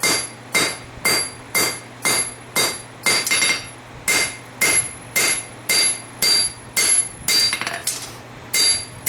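Hammer blows on an anvil drawing out the hot steel tang of a knife forged from a farrier rasp, to lengthen it: even, ringing strikes about two a second, with a brief pause about eight seconds in.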